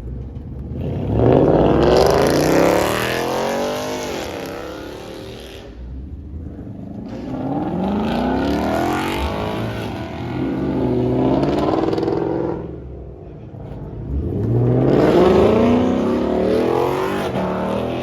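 Car engine revving hard in three long runs, the pitch climbing in each and dropping away between them.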